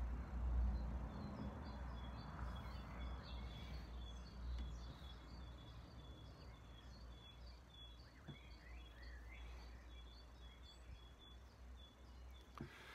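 Small birds chirping, a quick series of short high chirps repeating over and over, with a low rumble that fades away over the first few seconds.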